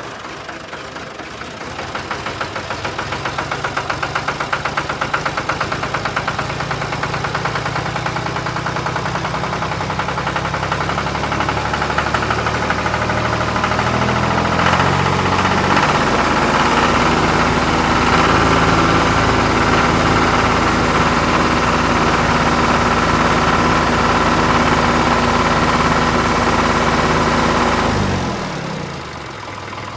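An engine running with a steady, rhythmic idle. It gets louder and slightly higher in pitch from about halfway through, then drops away sharply near the end.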